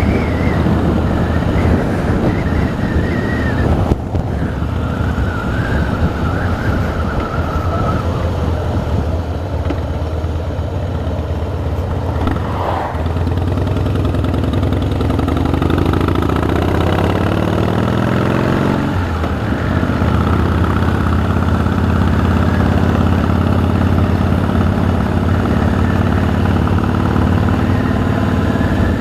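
Harley-Davidson V-twin motorcycle engine running under way. About halfway through it shifts gear and climbs steadily in pitch as it accelerates, shifts again a few seconds later, then runs steadily at cruising speed.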